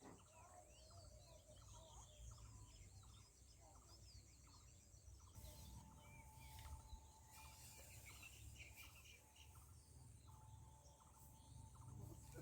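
Faint outdoor ambience with birds calling and chirping, under a low steady background hum.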